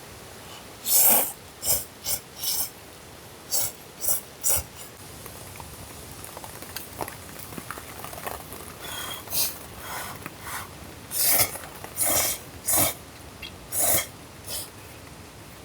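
A person eating noodles: short slurps and mouth noises in irregular bursts, about a dozen of them.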